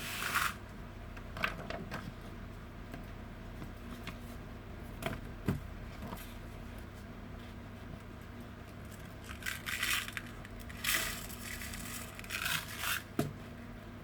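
Scraping and rustling from craft materials being handled, in short separate bouts with pauses between, over a steady low electrical hum.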